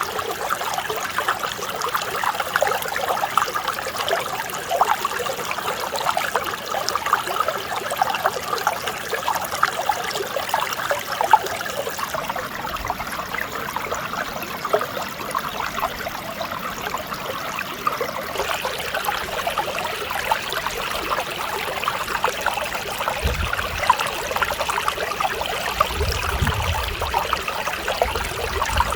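Mountain stream flowing over rocks: a steady babble and trickle of running water.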